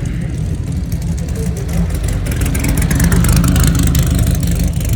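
A car engine running, louder around the middle.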